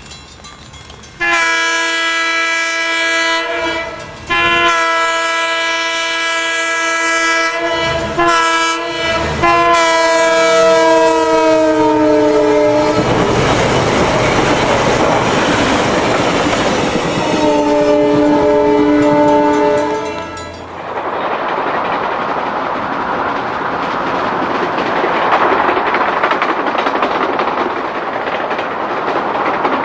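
Nebraska Zephyr's diesel locomotive air horn sounding a chord in the long, long, short, long pattern of a grade-crossing signal, the last blast falling in pitch as the train passes. Then the rush and clickety-clack of the passing train, with one more, lower horn blast partway through.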